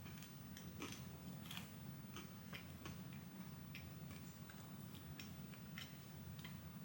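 Faint chewing of a crunchy caramel pretzel cluster: small irregular crunches and clicks about every half second, over a low steady hum.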